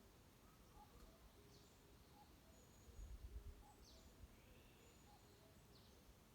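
Faint wild birdsong in a forest: a bird repeating short, high, falling notes every second or two, over softer lower calls that repeat steadily. A brief low rumble comes about three seconds in.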